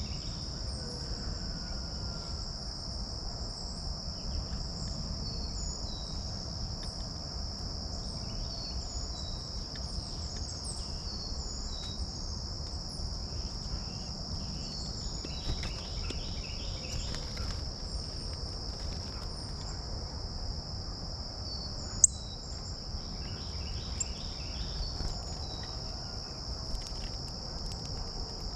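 A steady high-pitched insect chorus, with scattered short bird chirps and a low rumble underneath. A single sharp click about 22 seconds in is the loudest sound.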